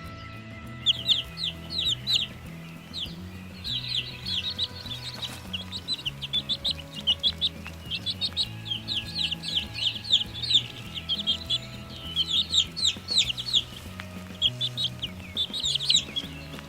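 Chicks peeping in quick, rapid runs of short high chirps, starting about a second in and coming in bursts throughout, over soft background music with low sustained notes.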